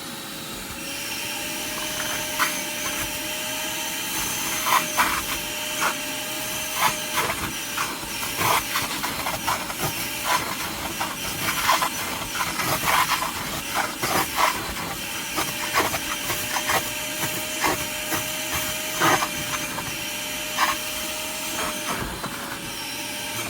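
Shop vac running with a steady whine, its nozzle sucking water up out of wet carpet with irregular clicks and slurps.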